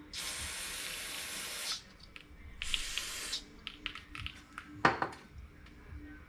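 Two bursts of pressurized spray hissing while carburetor parts are being cleaned, a long one of nearly two seconds and a shorter one, then a series of small clicks and a sharp knock about five seconds in.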